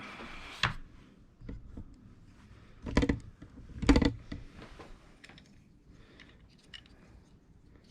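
Clicks, taps and scrapes of a hazard switch being handled, with two louder knocks about three and four seconds in and small clicks afterwards.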